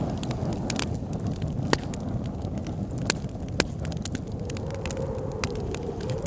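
Wood fire crackling with irregular sharp pops and snaps, over a steady low rush of blizzard wind with a faint wavering howl.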